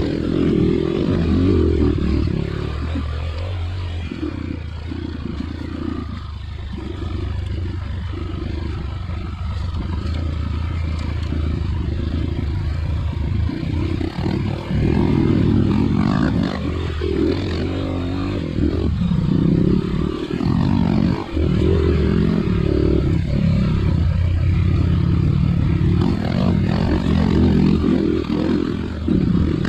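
Dirt bike engine running on a muddy trail, the revs rising and falling as the throttle is worked, with clatter and scraping from the bike.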